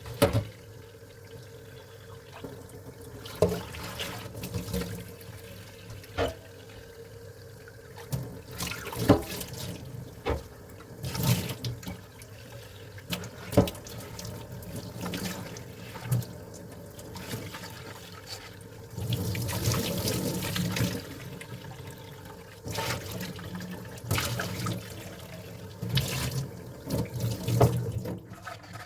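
Dishes being washed under a running kitchen tap: water running into the sink, with frequent clinks and knocks of dishes and utensils, and a louder stretch of water about two-thirds of the way through.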